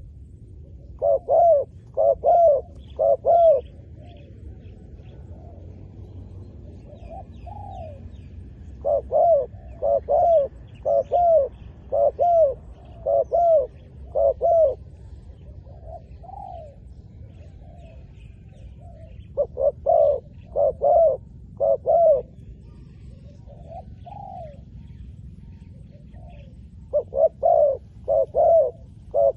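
Spotted dove cooing: phrases of three to six short, arched coos, about one a second, with pauses of several seconds between phrases and softer single coos in the gaps. Faint chirps of small birds sound in the background.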